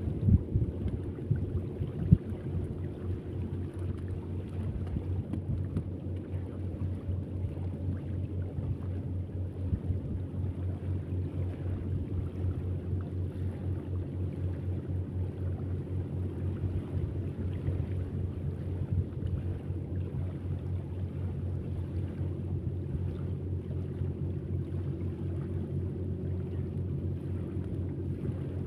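Boat engine running steadily at an even speed, a constant low hum with fast even pulsing.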